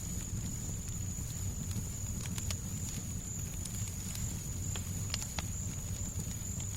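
Fireplace crackling, with scattered sharp pops and snaps over a steady low rumble of noise and a thin, steady high hiss.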